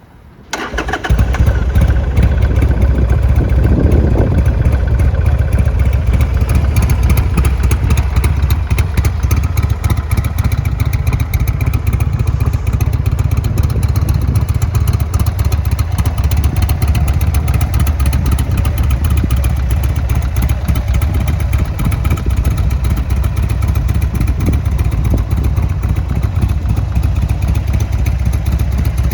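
2006 Buell XB12Ss Lightning Long's 1203 cc air-cooled V-twin starting up about a second in, then running steadily at idle.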